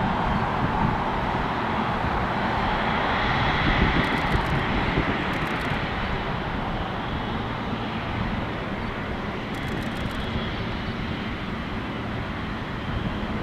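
Jet airliner's engines during takeoff: a broad rushing noise that peaks about four seconds in, then slowly fades.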